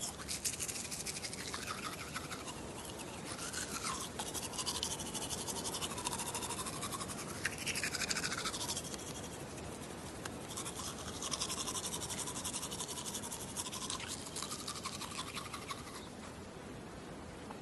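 Teeth being brushed with a toothbrush: a continuous scratchy bristle scrubbing in rapid strokes, slightly softer near the end.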